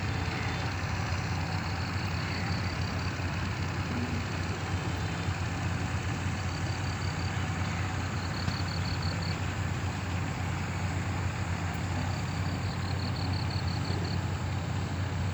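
A motor ferry boat's engine running steadily at a constant pitch, with no change in speed. Short runs of quick high chirps come and go several times over it.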